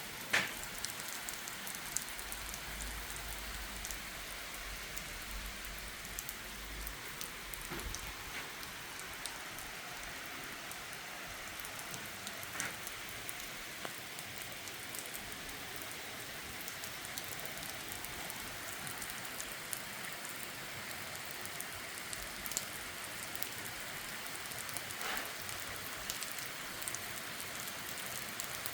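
Heavy rain on the church roof, heard from inside: a steady hiss with a few louder drops now and then.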